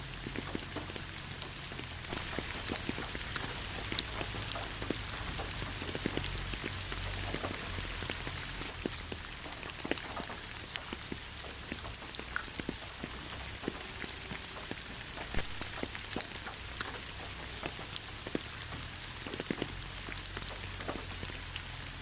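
Steady rain falling, with many separate drops ticking sharply and irregularly on a hard surface over an even hiss and a low rumble.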